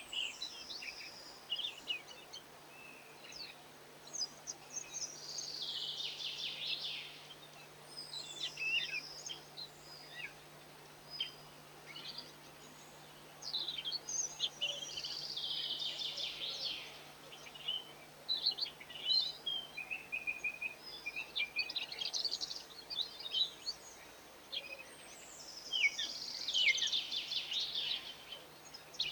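European goldfinches twittering in high, rapid bursts of song a few seconds long, about six times with short pauses between, over a faint steady low hum.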